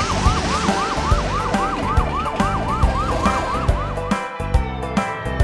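Cartoon fire truck siren in a fast yelp, its pitch rising and falling about four times a second, stopping about four seconds in. Background music with a steady beat runs underneath.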